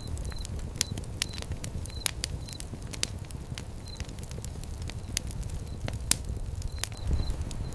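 Wood fire crackling, with irregular sharp pops and snaps over the low, steady rumble of the flames. A few brief high squeaks come in among the crackles.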